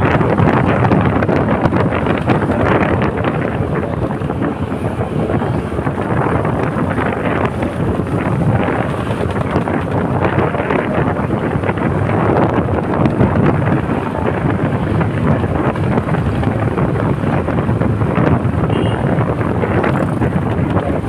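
Wind rushing over the microphone of a moving bike: a loud, steady rush of noise that swells and eases a little, with the ride's vehicle and road noise mixed in.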